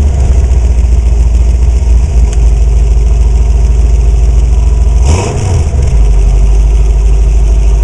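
Street-rodded 1937 Buick Century's engine running loudly as the car is driven, with a deep low note. About five seconds in the sound dips briefly and its pitch shifts, then it settles again.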